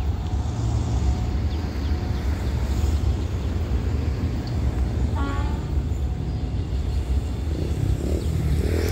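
Low, steady rumble of a diesel freight train hauled by Alsthom locomotive 4121, heard from far off as it moves away down the line. A brief high chirp comes about five seconds in.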